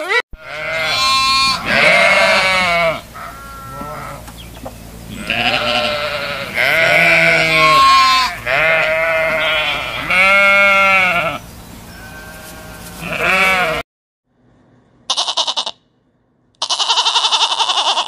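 Sheep and lambs bleating over and over, the calls overlapping and varying from deep to higher-pitched. After a brief silence near the end, goats bleat twice.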